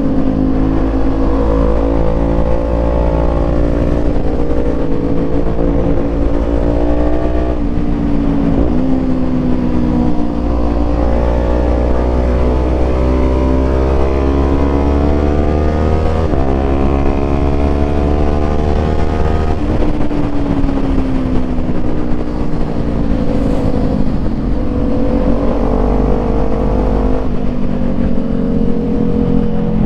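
Motorcycle engine pulling hard through the gears on a twisty road. Its pitch climbs steadily and then drops at each of several shifts, around 4, 7, 10, 16, 20 and 27 seconds in.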